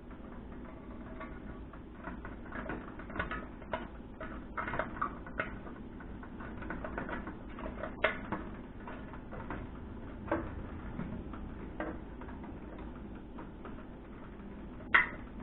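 Faint, scattered clicks and scrapes of a plastic fluorescent-light starter socket being worked back into its hole in the fixture's metal housing, with a sharper click near the end as it locks in.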